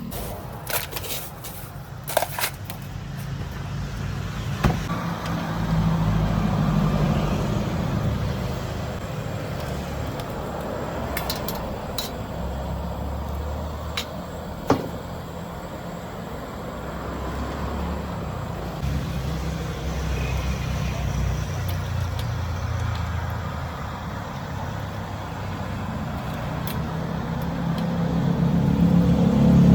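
Road traffic passing, a low rumble that swells and fades as vehicles go by and builds loudest near the end, with a few sharp metallic clicks.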